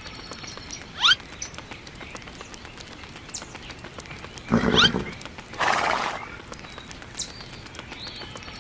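Animal calls: two short rising calls, a louder call a little past halfway, then a brief rush of noise.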